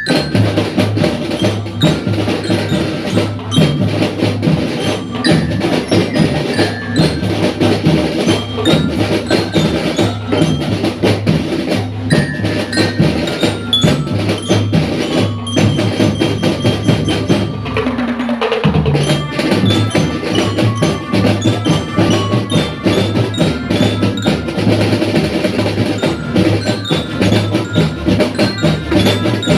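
School drum band playing a march: rapid drum strokes under a bright glockenspiel-type melody.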